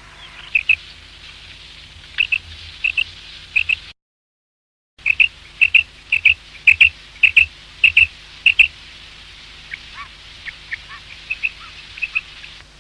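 Quail calling: short, high notes given in quick pairs and triplets, over and over. The sound drops out completely for about a second, about four seconds in.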